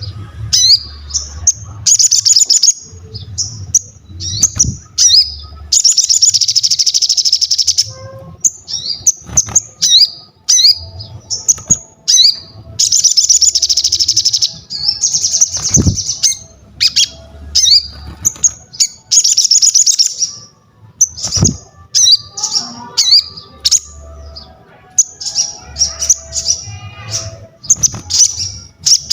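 A sogon songbird singing hard: rapid, repeated short chirps broken every few seconds by longer buzzy trills of about two seconds, with soft low thumps underneath.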